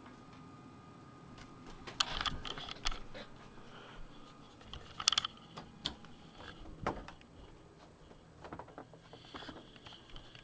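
Scattered sharp clicks and knocks with light rustling, the loudest about two seconds in and about five seconds in.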